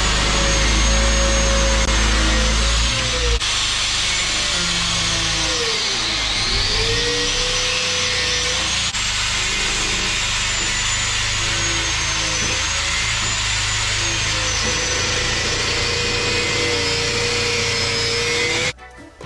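Electric power tool fitted with a wire brush, running under load and scouring rusty steel with a harsh, steady scraping. The motor's pitch sags and recovers as it is pressed in, and it stops abruptly near the end.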